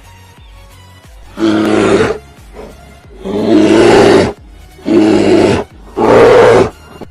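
A large animal roaring four times, each call about a second long, over background music.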